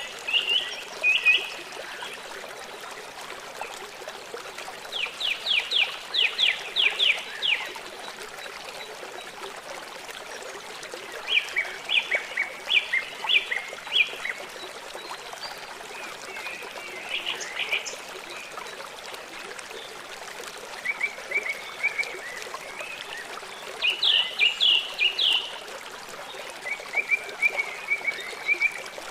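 Small songbird singing short phrases of quick repeated notes, about seven phrases a few seconds apart, over a steady rush of running water.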